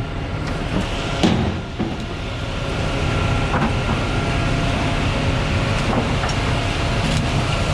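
Concrete mixer truck's diesel engine running steadily, with a couple of short knocks about a second in.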